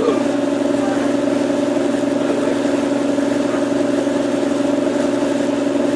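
CNC wood router's spindle running, a steady even whine that holds without change.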